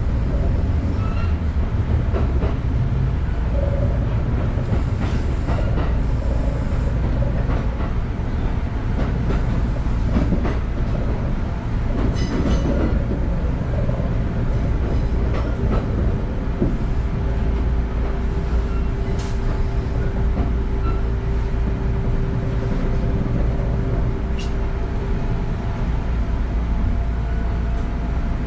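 Kintetsu electric commuter train running on the rails, heard from the driver's cab: a steady low rumble of the wheels with scattered clicks and knocks over rail joints and points. A steady whine comes in about halfway and fades out near the end as the train reaches a station platform.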